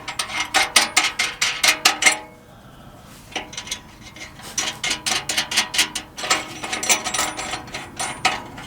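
Socket ratchet wrench clicking in quick strokes, in three runs with short pauses between, as nuts on the new exhaust pipe work are tightened.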